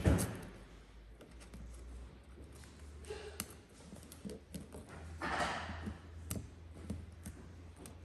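Light handling sounds of hand work: scattered small clicks and taps, a thump at the very start, and a short rustling scrape about five seconds in.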